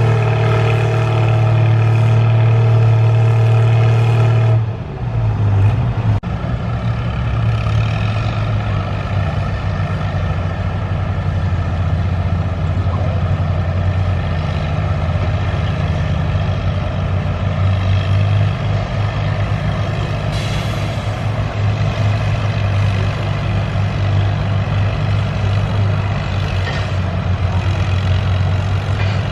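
Farm tractor engine running hard in a tractor pull. Its pitch drops about five seconds in, then it holds steady and loud.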